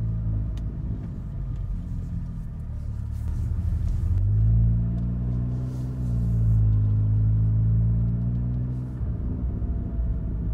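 Engine and road rumble heard inside the cabin of a 2018 VW Golf R, from its turbocharged 2.0-litre four-cylinder. The engine note rises about three seconds in as the car picks up speed, holds, and drops back near the end.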